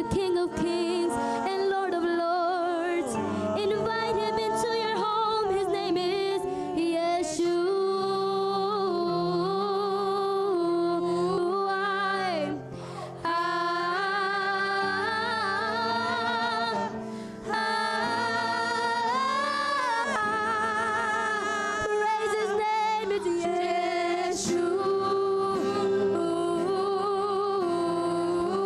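A vocal group singing a gospel worship song in harmony, a woman's voice prominent, with long held notes and vibrato and two short breaths between phrases.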